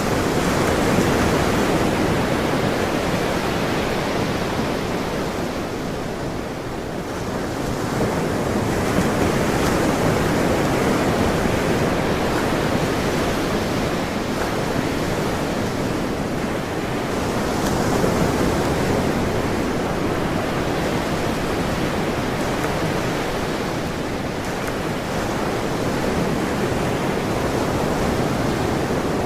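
Ocean waves breaking and washing on a shore, a continuous rush of surf that swells and eases every several seconds.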